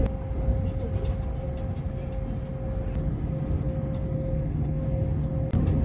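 Running noise heard inside an electric limited-express train: a steady low rumble with a constant hum and a few faint clicks of wheels on the rails.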